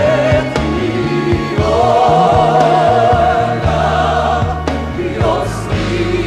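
Gospel song with choir: voices hold long notes with vibrato over a band's steady bass notes.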